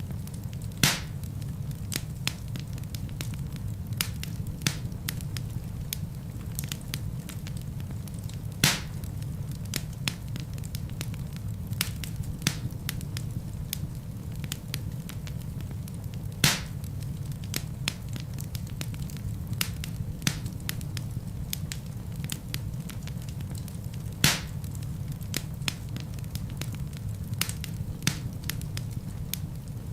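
Wood fire burning in a fireplace: a steady low rumble of flames with frequent small crackles and a few louder pops of the burning logs.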